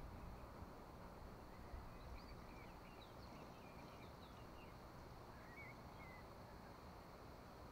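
Near silence: faint, scattered bird chirps over a low background rumble.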